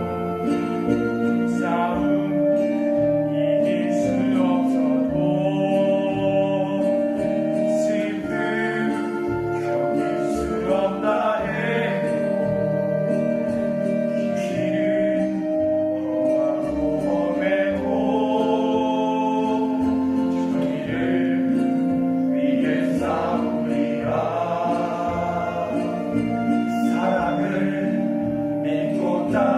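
Music: a group of voices singing long held, choir-like notes over instrumental accompaniment.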